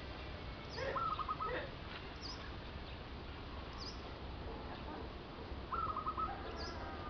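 Birds calling: a short high chirp repeated about every second and a half, and twice a quick run of four or five lower notes, the loudest sounds, one about a second in and one near the end, over steady low background noise.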